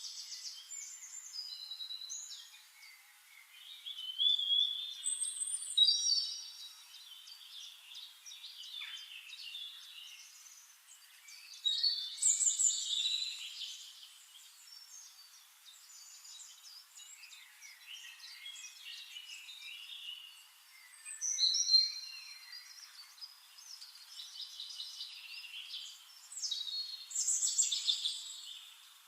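Songbirds singing: many short chirps, trills and whistled phrases, several birds overlapping, with louder stretches of song coming and going every several seconds.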